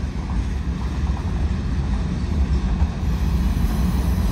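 Freight train cars rolling past, a steady low rumble of wheels on the rails.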